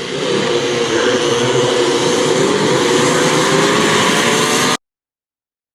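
Vintage motocross bike engines running hard at high revs, the pitch climbing gently as a bike accelerates. The sound cuts off abruptly just before the end.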